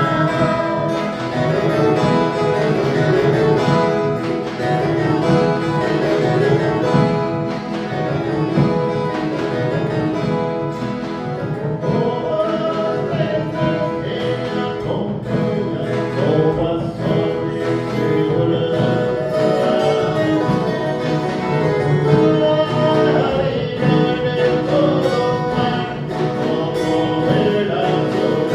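An ensemble of viola caipira, the ten-string Brazilian country guitar, playing a Christmas folk song, with voices singing over the plucked strings.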